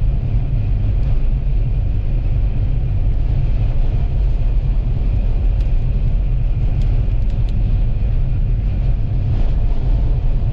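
Vehicle driving on a highway: a steady low rumble of engine, tyres and wind noise.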